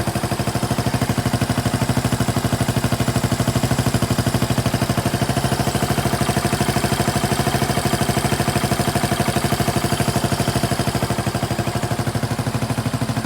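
Suzuki VanVan 200's single-cylinder four-stroke engine idling steadily through an aftermarket exhaust, with an even, rapid beat of exhaust pulses.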